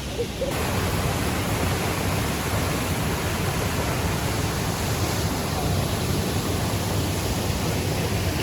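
Steady rushing of water from the Triberg waterfalls cascading over rocks, a dense even noise that grows louder about half a second in and then holds level.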